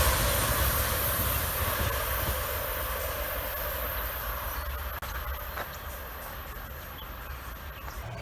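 A train rolling past and moving away, its rumble and wheel noise fading steadily.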